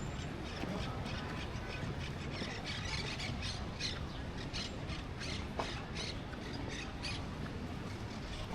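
Birds giving many short, high squawks at irregular intervals over a steady low background rumble.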